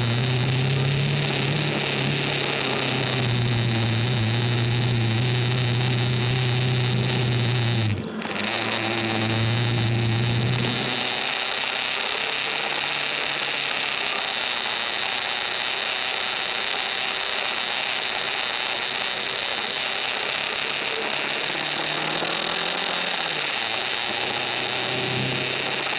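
KTM RC 390's single-cylinder engine running at road speed under a steady hiss of wind and road noise. There is a brief break about eight seconds in, and the engine note falls away about eleven seconds in, leaving mostly the hiss, before it rises again near the end.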